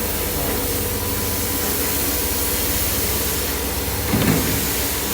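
Steady factory machinery noise: a constant hiss over a low hum, with a brief louder sound about four seconds in.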